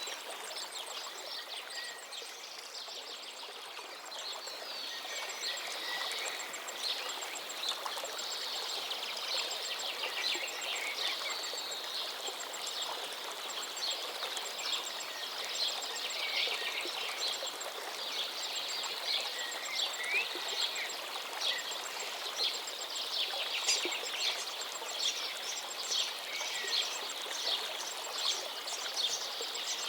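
River water flowing steadily, with many small birds chirping and singing over it. In the second half, short bird calls repeat about once a second.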